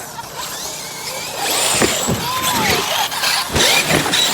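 A pack of large electric RC monster trucks racing, their motors whining as the pitch sweeps up and down, growing louder about a second and a half in. Two thuds land around two and three and a half seconds in.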